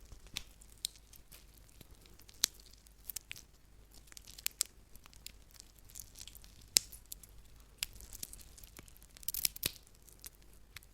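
Meat being pulled apart and handled: irregular wet, sticky tearing crackles and scattered sharp clicks, a few of them much louder.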